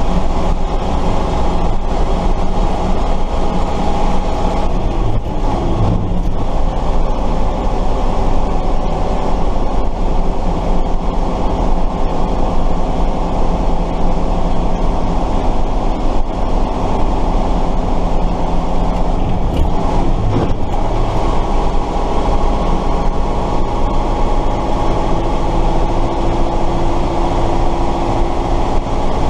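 Tatra 138's air-cooled V8 diesel engine running steadily as the truck drives, heard on board. The engine note shifts briefly twice, about six seconds in and again about twenty seconds in.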